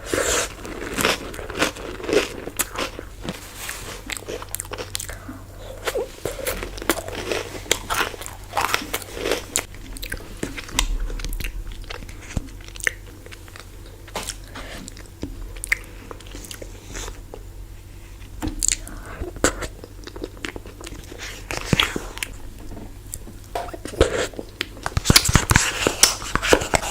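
Close-up biting and chewing of a chocolate-coated ice cream bar: the hard chocolate shell crunches and cracks in irregular bites, and the chewing turns wetter between them. The crunching gets denser and louder near the end.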